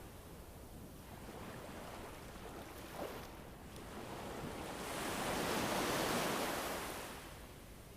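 Winter wind soundscape: a steady rush of wind that swells to a gust about six seconds in and then dies down again.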